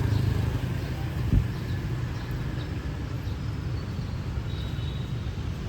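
City street traffic: a steady low rumble of passing vehicle engines, with one short thump about a second and a half in.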